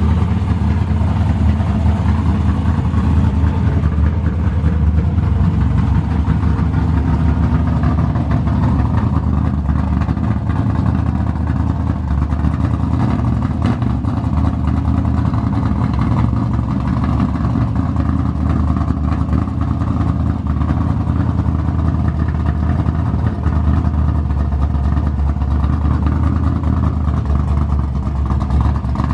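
A car engine running loud and steady at low speed, with a deep low rumble throughout.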